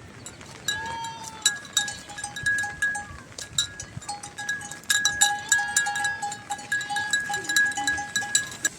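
A small metal bell clanking over and over, its fixed ringing tone starting and stopping in short pulses among sharp metallic clicks.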